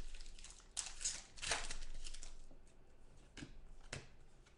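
Trading cards and packaging being handled on a table: two rustling swishes, then a few light clicks.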